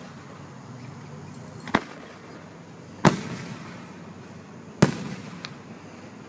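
Aerial firework shells bursting overhead: three sharp booms about a second and a half apart, the last two the loudest, followed by a fainter pop.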